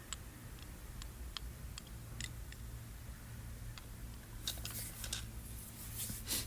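Scattered light clicks and taps of objects being handled, then two short bursts of rustling in the last two seconds.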